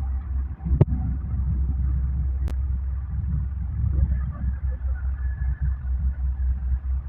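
Heavy diesel engine of a wheeled excavator running with a steady low rumble, with a sharp knock about a second in and a fainter click a little later.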